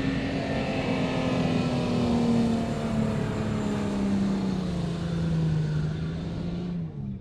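A motor vehicle's engine running steadily, its pitch falling slowly as it eases off. The sound cuts off abruptly near the end.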